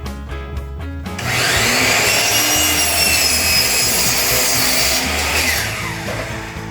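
Power saw starting up about a second in, cutting wood for about four seconds with a high whine, then winding down.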